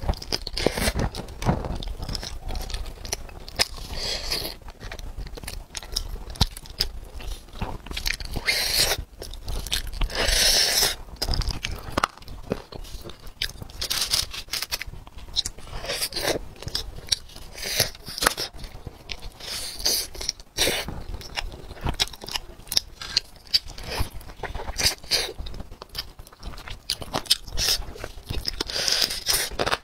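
Close-miked chewing and biting as a whole roast chicken is eaten by hand: irregular wet clicks and short smears of mouth and finger noise, with a louder stretch about ten seconds in and again near the end.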